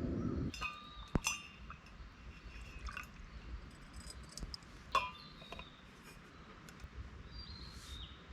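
A few light clinks and taps with a brief ring, the two sharpest about a second in and about five seconds in, over a faint steady background.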